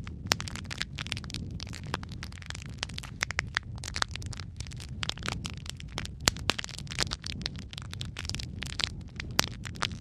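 Wood fire burning in a fireplace: logs crackling with frequent, irregular sharp pops over a low steady rumble of the flames.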